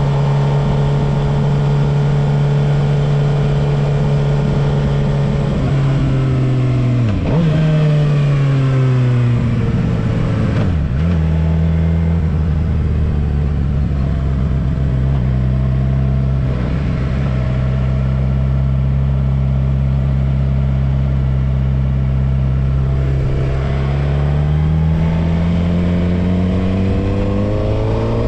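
Suzuki GSX-R750's inline-four engine heard from the rider's seat: it runs steadily, drops in pitch as the bike slows with a couple of brief dips like gear changes, runs low and steady for a long stretch, then climbs in pitch as it accelerates near the end.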